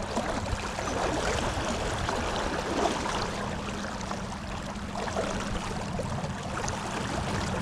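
Water rushing and splashing along a small boat's hull, with a steady low hum from its electric trolling motor as the boat moves.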